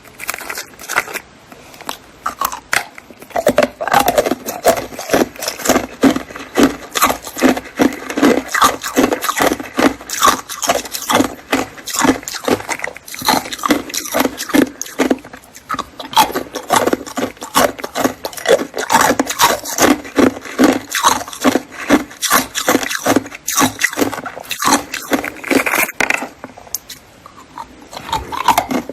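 Ice being bitten and chewed close to the microphone: a dense, continuous run of sharp crunches, several a second.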